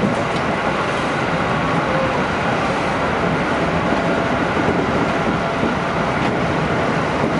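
Running noise of a 211-series electric train travelling along straight track, heard from inside the front of the train: a steady rumble of wheels on rails.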